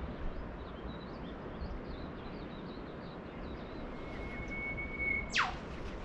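Birds calling at dawn: faint high twittering through the first half, then one bird's long steady whistle that ends, near the end, in a loud, very fast downward sweep. Under it, a steady low wash of surf.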